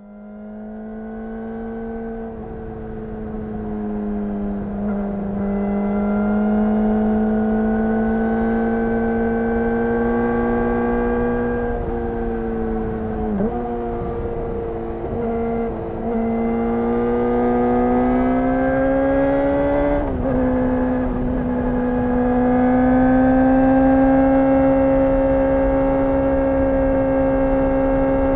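Yamaha R6 inline-four engine through a LeoVince aftermarket exhaust, running at a fairly steady, high-pitched pace. The pitch creeps up slowly and dips briefly a few times as the revs change.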